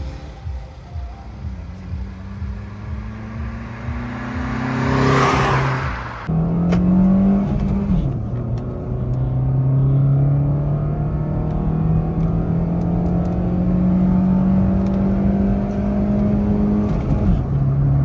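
Maruti Suzuki Swift's engine, running on CNG, pulling hard through its manual gears. The pitch climbs steadily in each gear and drops at the gear changes, about 8 and 17 seconds in. About 5 seconds in, a rushing whoosh swells and fades.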